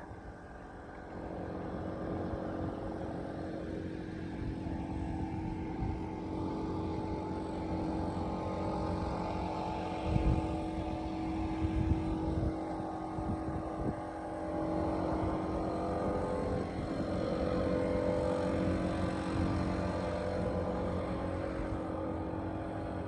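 A vehicle or machine engine running steadily, with a couple of short knocks about ten and twelve seconds in.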